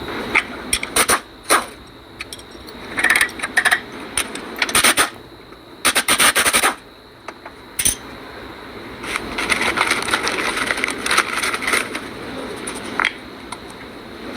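Tools working on metal car parts: a run of sharp metallic clinks, scrapes and short rasping bursts, the longest lasting nearly a second around the middle.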